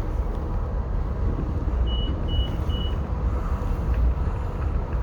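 Steady low rumble of an Amtrak Pacific Surfliner passenger train running, heard from inside the coach. Three short high beeps sound about two seconds in.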